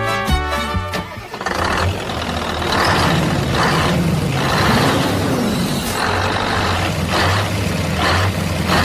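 Violin music stops about a second in, giving way to a truck-like engine sound: a steady low hum overlaid with hissing that swells and fades in repeated pulses, roughly every half second to second.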